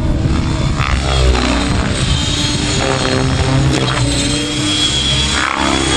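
Radio-controlled model helicopter flying, its rotor and motor whine sweeping in pitch as it moves past, about a second in and again near the end. Music plays along with it.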